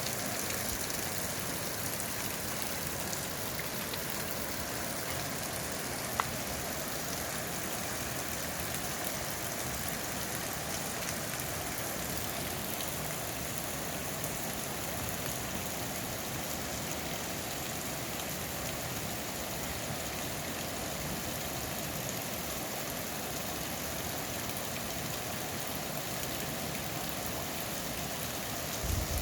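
Mountain valley stream water rushing in a steady, even wash. A single click sounds about six seconds in, and a short low thump near the end.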